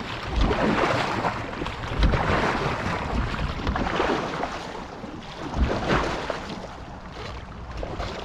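Paddle strokes swishing and splashing through lake water, about four of them, taken to build speed, over steady wind buffeting the microphone.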